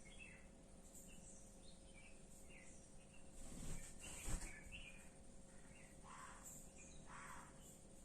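Faint bulbul calls: scattered short chirps and a few harsher notes, repeated irregularly. A brief louder rustle and thump comes near the middle.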